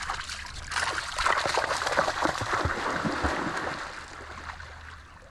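River water running and splashing. It swells about a second in and fades near the end, with a few low thumps.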